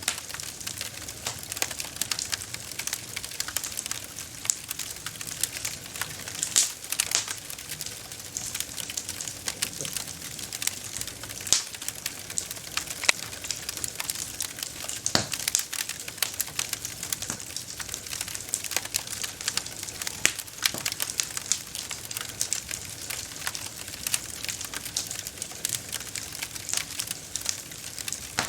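Wood fire crackling and popping steadily, with a dense run of small snaps and now and then a louder pop.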